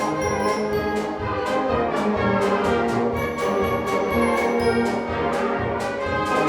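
Middle-school wind orchestra playing a march, brass carrying sustained chords over a steady percussion beat.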